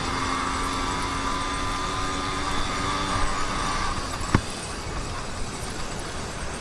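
YD100 two-stroke motorized-bicycle engine running at a steady pitch. About four seconds in, its tone drops away and a single sharp click sounds.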